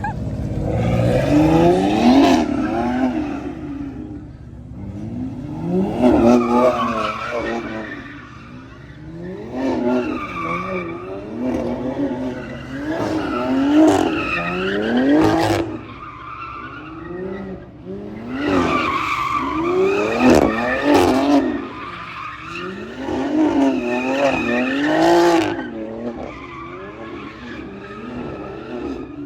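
A car spinning: its engine revs up and drops back in repeated surges about every four seconds, with tyres squealing and skidding.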